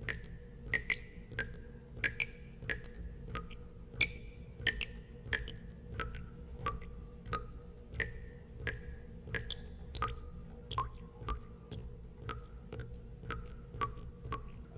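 Water drops falling one after another into water, about one and a half drops a second, each a sharp plink with a short ringing tone whose pitch varies from drop to drop. A steady low hum runs underneath.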